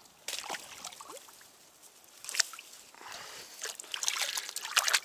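Water sloshing and trickling, with small knocks and rustles, getting busier and louder about three seconds in.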